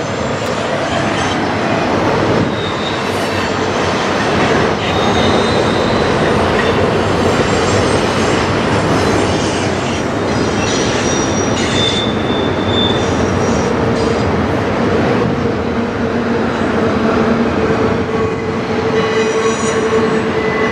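Long intermodal freight train rolling past in a steady, continuous rumble of cars on the rails. Several brief high-pitched squeals come from wheel flanges on the curving track.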